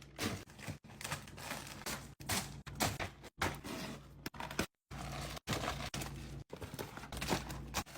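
Groceries and containers being handled and set into a fridge: clinks, taps and scrapes in short snippets that cut off abruptly every second or so, over a low hum.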